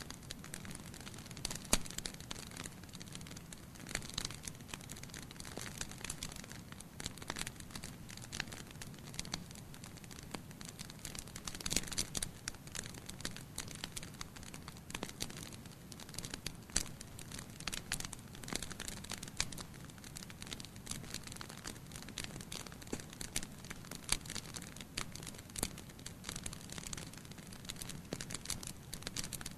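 Wood fire burning in a fireplace, crackling with irregular sharp pops over a soft steady rush of flame.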